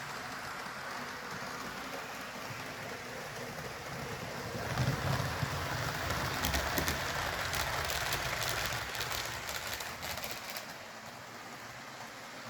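HO scale model train led by Walthers Trainline GP15-1 locomotives running on the track: a steady hiss of wheels and motor hum. From about five seconds in it grows louder, with a low rumble and a rattle of fine clicks as the train passes close, then falls back near the end.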